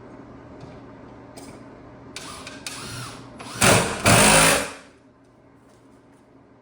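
Power drill run in short bursts, the last two much louder, fastening a wooden edge board of a concrete form; it stops suddenly about five seconds in.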